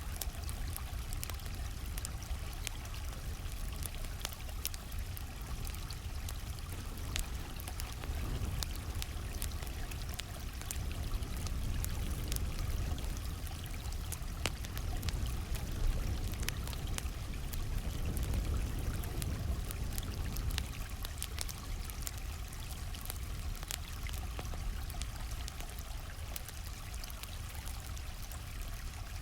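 A stream flowing steadily, with a campfire crackling over it in frequent small, sharp pops.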